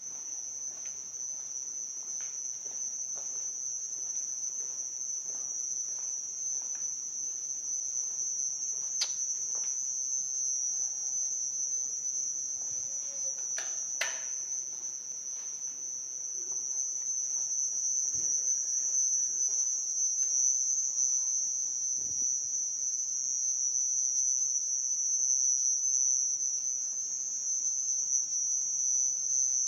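Cricket chirping in a continuous, high-pitched trill that grows louder over the second half, with a few faint clicks along the way.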